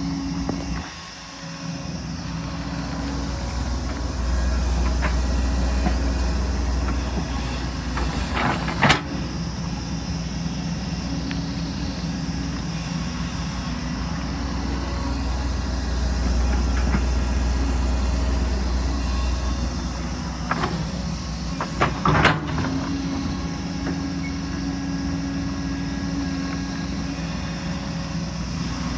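Excavator's diesel engine running steadily, swelling louder and easing off as it works, with a few sharp clanks, the loudest about 9 and 22 seconds in.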